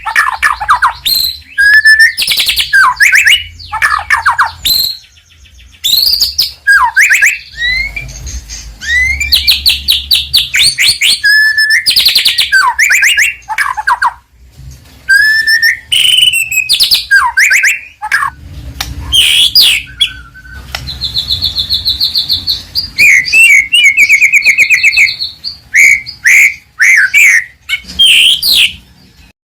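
White-rumped shama (murai batu) singing a varied song of sweeping whistles and rapid trills, in short phrases with brief pauses between them.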